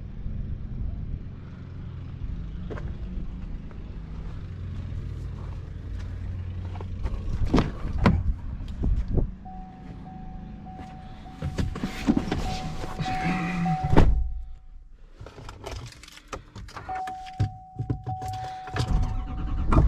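Pickup truck being handled: a few knocks and thunks of doors and panels, and a steady single-pitch warning tone from the truck that starts about halfway in, breaks off for a couple of seconds, then resumes. A low rumble runs under the first half.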